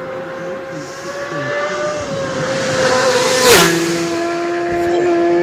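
A racing superbike passing at full throttle: its engine note climbs as it approaches, then drops sharply in pitch with a loud rush about three and a half seconds in as it goes by, and carries on lower as it moves away.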